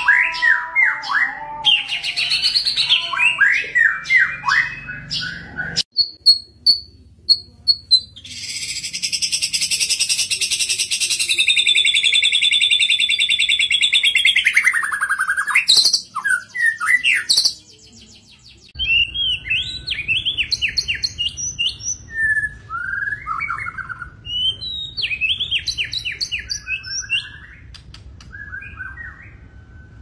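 White-rumped shama singing: rapid strings of chirped and whistled phrases, broken from about 8 to 15 seconds in by a long, harsh buzzing rattle that ends in a falling note, then more short varied phrases.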